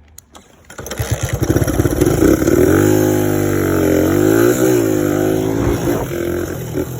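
Single-cylinder four-stroke engine of a 1986 Suzuki DR100 dirt bike coming up about a second in, with slow firing pulses at first, then revving so that its pitch climbs, dips and climbs again as the bike pulls away.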